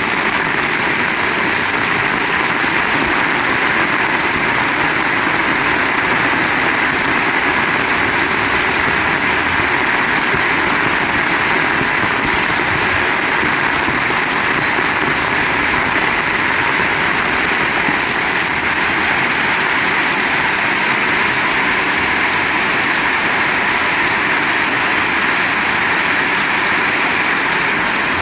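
Heavy rain pouring down, a dense, steady hiss without a break.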